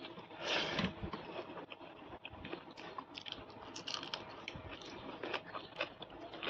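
A person chewing and biting food, with many small wet clicks and crackles and a louder crunching burst about half a second in.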